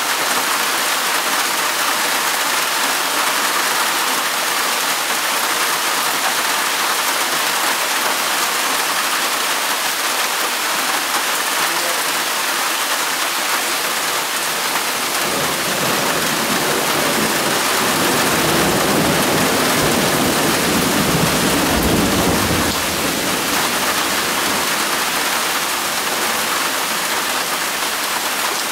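Steady rain falling, an even hiss. About halfway through, a low rumble swells for several seconds and then dies away.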